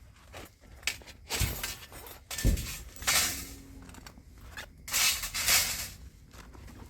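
Handling noises: rustling and crinkling with two dull thumps in the first half, then two longer rustling bursts.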